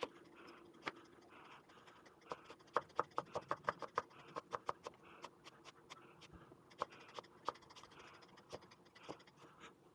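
Kitchen knife chopping vegetables on a cutting board: a quick run of sharp taps, about four or five a second, between about two and five seconds in, with scattered single taps before and after.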